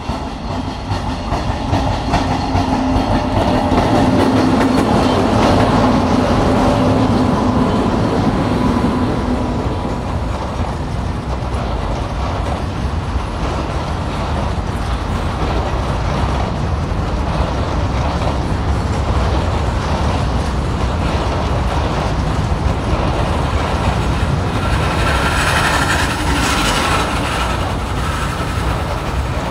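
Goods train of covered box wagons running through a station at close range: a continuous rumble and clatter of wagon wheels on the rails. A low steady drone runs through the first ten seconds or so, and a higher squeal comes in briefly near the end.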